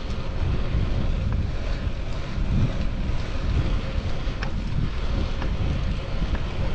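Wind buffeting the microphone of a chest-mounted GoPro Hero 10 on a moving bicycle: a steady, heavy low rumble with a few faint clicks scattered through it.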